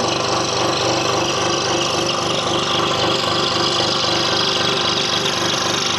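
Scroll saw running steadily, its blade cutting a curved puzzle piece out of wood.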